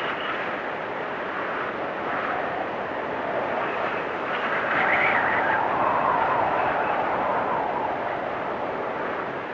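Blizzard wind rushing steadily, with gusts that swell and waver in pitch, strongest about five to seven seconds in.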